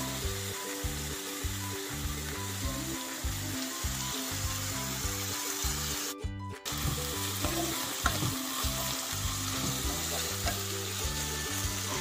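Grated potato and sliced onion sizzling steadily in hot oil in a nonstick kadai, stirred with a wooden spatula near the end. The sizzle briefly cuts out about six seconds in.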